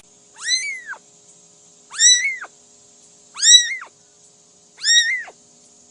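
A cat meowing four times at even intervals, about one call every second and a half; each meow is high-pitched and rises and falls.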